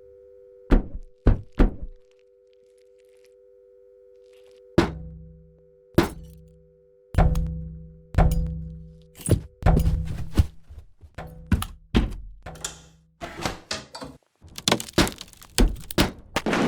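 Horror film soundtrack: a series of heavy thuds and bangs. Three quick ones come about a second in, then after a pause louder blows with a ringing tail, coming faster and faster toward the end, over a steady low two-note hum that stops about halfway.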